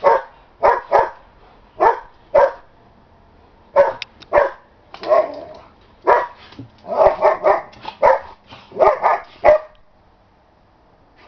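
A dog barking over and over, about twenty short sharp barks in quick runs, stopping shortly before the end.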